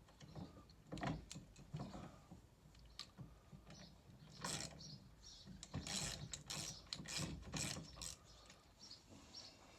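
Irregular metallic clicks and rattles of hand work as a nut is wound in on the replacement stairlift motor and gearbox. About halfway through comes a busier run of repeated strokes.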